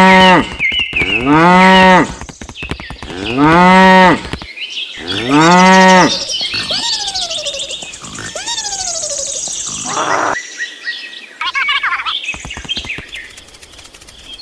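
Cow mooing four times in quick succession, each call short and arching in pitch, followed by fainter calls that fall in pitch and a mix of other animal sounds.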